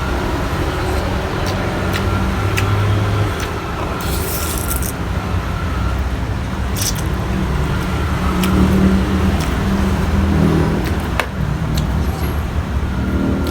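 Steady low rumble like a running vehicle engine or passing road traffic, with a few sharp clicks and a short hiss about four seconds in.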